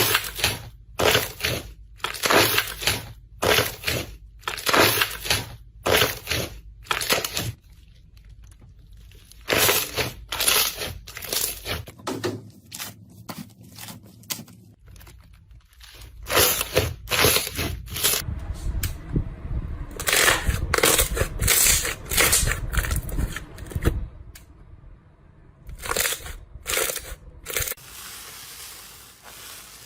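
Crunchy material being crushed in a series of short, sharp crunches, in runs separated by pauses of a second or more.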